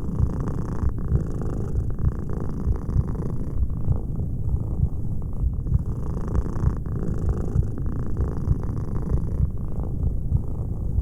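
Domestic cat purring close up: a steady, rapid low purr that shifts slightly with each breath every few seconds.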